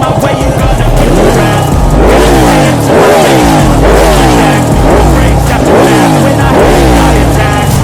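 Vehicle engine revved in repeated throttle blips, about one a second: each blip's pitch jumps up and then falls back as the revs drop, six or so times in a row.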